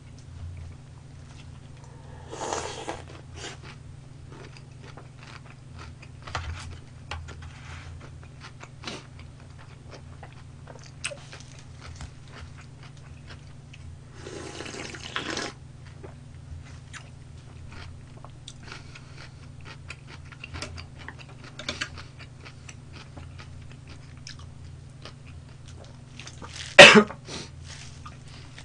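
A person chewing and biting into crispy fried chicken: small crunches and mouth clicks throughout, a couple of louder crunchy bites, and a short louder sound near the end, over a low steady hum.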